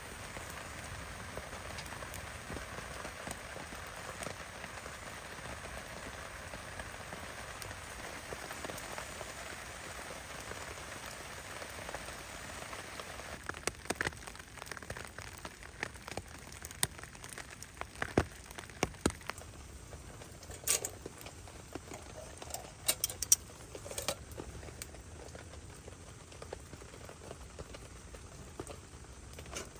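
Heavy rain falling steadily, its hiss lighter in the second half, with scattered sharp clicks and knocks from about halfway through.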